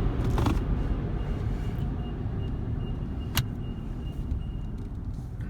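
Car engine idling, heard from inside the cabin as a steady low rumble that slowly fades, with a single sharp click about three and a half seconds in.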